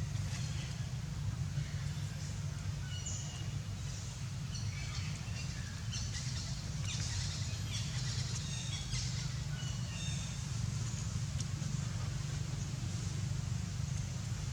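Birds chirping in short high calls, scattered through the middle, over a steady low rumble.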